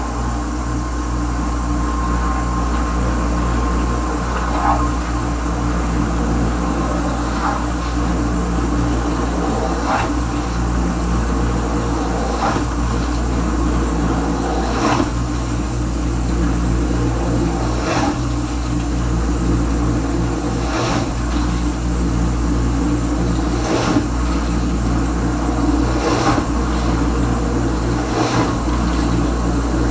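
Kenmore Ultra Wash 3 dishwasher running its Normal cycle: a steady pump hum with water spraying inside the tub, and a soft swish recurring every two to three seconds.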